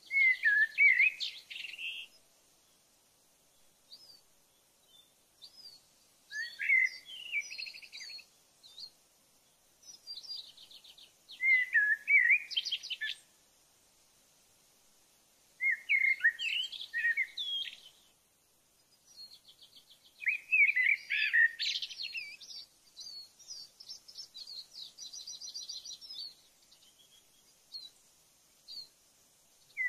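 A songbird singing in short, varied phrases of about two seconds, full of fast trills and quick high sweeps, repeated every few seconds with near silence between them. A longer run of song comes about twenty seconds in.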